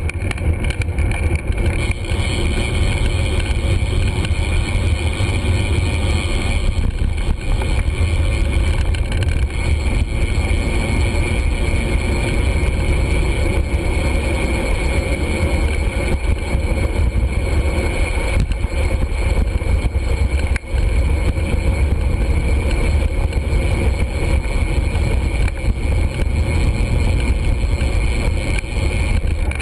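Steady wind rumble buffeting a GoPro's microphone while riding a bicycle, a loud, even low roar with no distinct events.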